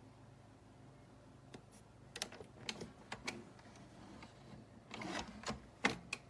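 A series of irregular clicks and knocks, a few at a time, with the loudest near the end.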